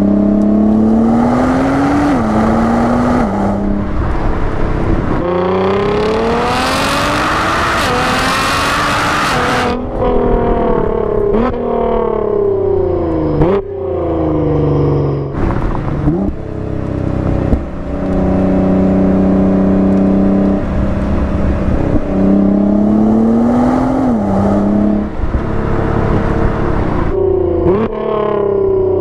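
Nissan GT-R's twin-turbo V6 heard from inside the cabin under hard acceleration. The engine pitch climbs and drops sharply at each of several quick upshifts, over a few separate full-throttle pulls.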